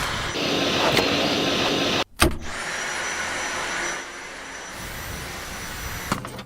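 Cordless vacuum cleaner running: a steady rushing hiss with a thin high whine, broken by an abrupt cut about two seconds in and dropping in level about four seconds in.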